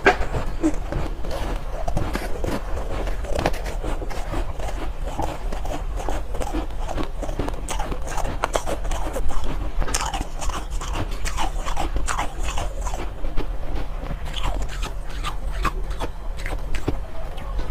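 Close-up chewing of soft, powdery ice: a dense, irregular run of small crunches and crackles, busiest about ten to thirteen seconds in.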